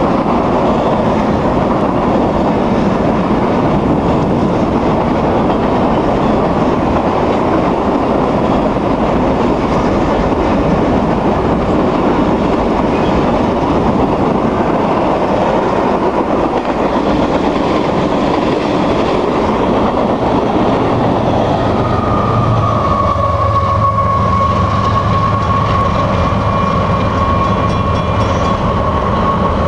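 Freight train wagons rolling past at speed: a steady rumble with the clatter of wheels over rail joints. About three quarters of the way through, as the end of the train goes by, a steady high tone and a low engine drone come in.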